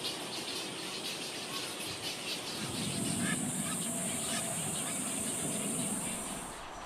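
Black-crowned night herons calling at the nest, harsh honk-like sounds, with a steady high hiss that runs from partway through and stops shortly before the end.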